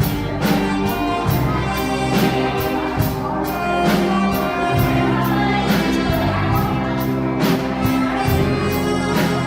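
Live band music: held chords over a steady beat.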